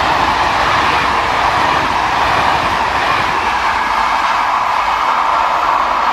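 A train passing close by: a loud, steady running noise from the rails.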